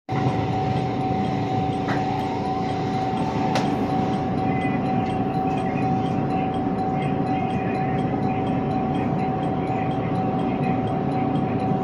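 Commuter electric train running slowly at about 20 km/h, heard from just behind the driver's cab: a steady rumble of wheels on rail with a constant high tone, and a sharp click about three and a half seconds in.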